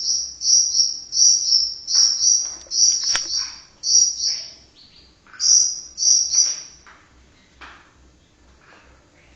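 White-rumped shama (murai batu) singing a run of short, buzzy, cricket-like trills, about two a second, that stop about seven seconds in and give way to softer scattered chirps.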